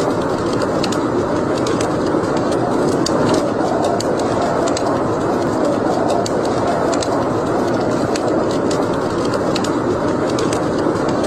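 Wood fire crackling in a fireplace: sharp, irregular pops and snaps over a steady rushing noise.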